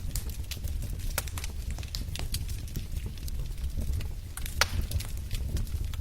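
Wood fire in a fireplace crackling: irregular sharp pops and snaps over a low, steady rumble of the flames, with one louder pop about three-quarters of the way through.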